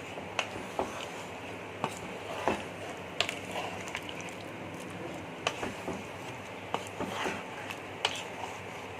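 Metal spatula stirring chicken in a kadai, with irregular scrapes and knocks against the pan over a steady hiss.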